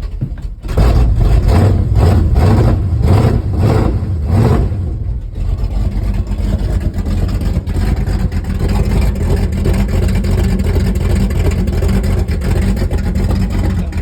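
Cold 402 big-block Chevy V8, breathing through a 750 Holley carburetor with no choke, running just after a cold start at freezing temperature. It jumps in loudness about half a second in and surges rapidly for about four seconds, then settles into a steady idle.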